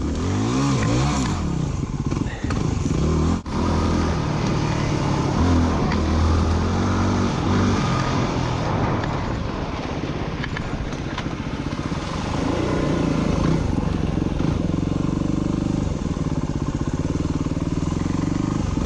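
Dirt bike engine running under way, its pitch rising and falling again and again as the throttle is opened and eased, with a brief break about three and a half seconds in.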